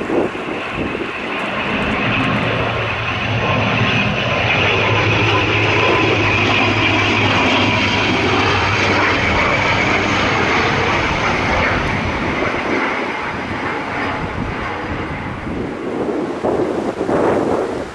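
Turboprop airliner passing: a steady engine and propeller drone that swells to a peak around the middle and then eases off.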